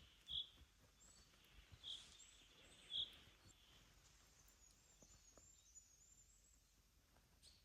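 Faint small-bird calls over near silence: three brief high chirps in the first three seconds, then a thin run of higher, fainter notes.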